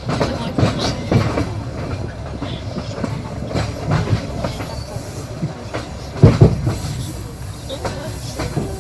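Passenger train wheels clattering over rail joints, heard from aboard the moving train over a steady running rumble, with a loud double knock about six seconds in.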